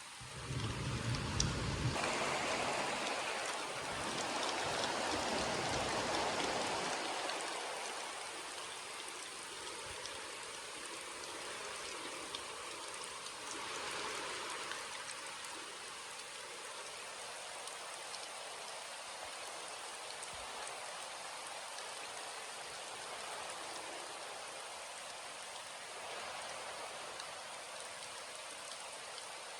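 Steady rain falling, heavier for the first several seconds, with a brief low rumble at the very start, then settling to an even patter.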